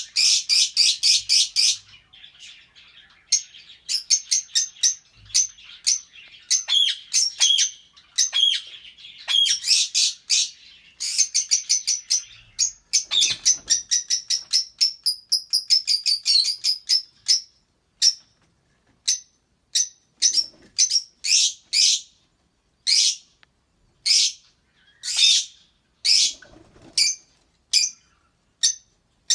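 Lovebirds chirping: fast runs of sharp, high chirps packed closely together, then single chirps about one a second in the last third.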